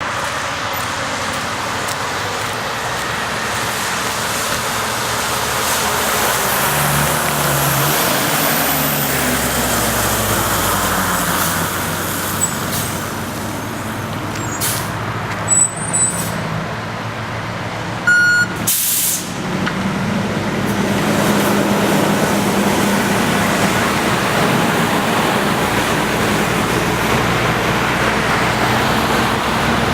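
Fire engine's diesel running as the truck pulls up, its note shifting as it slows. About halfway through come a few short, loud bursts, the later one a hiss of air brakes.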